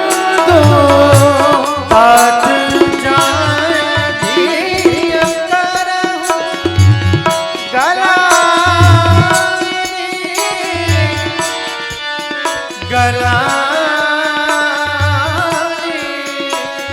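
Indian devotional music: tabla with deep bass strokes in short clusters every second or two, under a melodic line that bends and slides in pitch.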